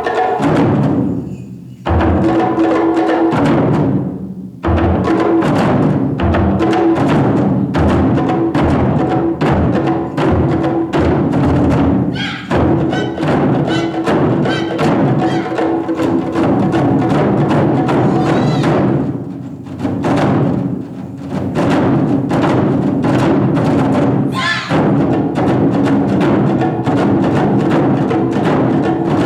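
Ensemble of Japanese taiko drums playing a dense, fast rhythm, with two short breaks in the first five seconds before the drumming runs on unbroken.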